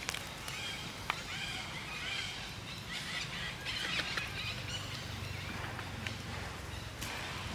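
Monkeys giving many short, high, arching squeaks and chirps, overlapping one another, with a few sharp clicks among them.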